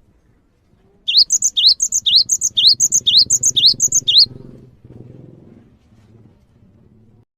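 Gelatik bird call: a run of about seven short rising high notes, roughly two a second, that stops a little over four seconds in, over a low background rumble.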